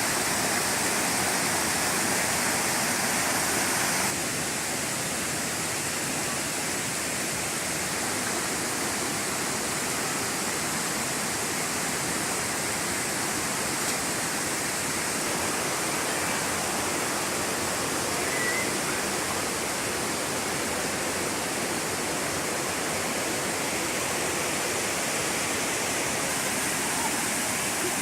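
Waterfall rushing steadily into a stream, a dense even roar of falling water that becomes slightly quieter about four seconds in.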